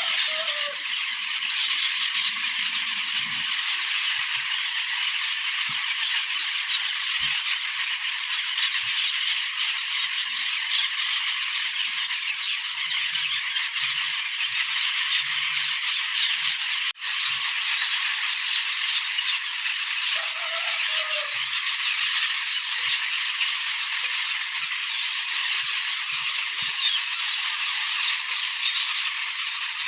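A flock of Asian glossy starlings chattering and calling without pause in a dense, loud din, broken only by a momentary gap a little past the middle.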